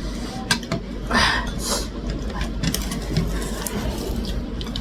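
Eating with cutlery on dishes: a few sharp clicks and clinks of utensils on a plate, with a short scraping noise about a second in, over a steady low hum.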